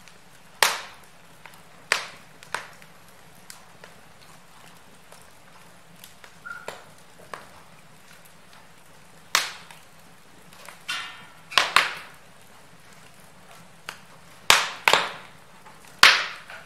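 Wood fire burning in a fireplace, crackling: loud, sharp pops come at irregular intervals, some in quick pairs, over a faint steady hiss, with a quieter stretch in the middle.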